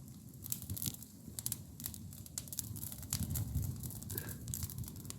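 Wood campfire crackling: irregular sharp pops and snaps over a low rumble.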